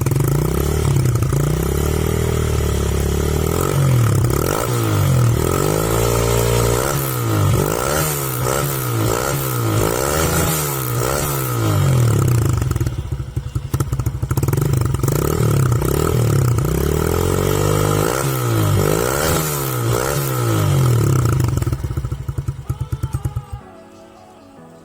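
Motorcycle engine running through an aftermarket Over exhaust with its dB killer baffle removed, revved in repeated quick blips about once a second, then switched off abruptly near the end.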